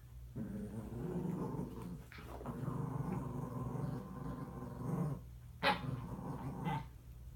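Dog growling in two long, low stretches, then two short barks near the end.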